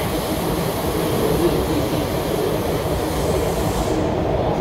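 MTR SP1900 electric multiple-unit train running at speed, heard from inside the car: a steady rumble of wheels and running gear. The higher hiss drops away about four seconds in.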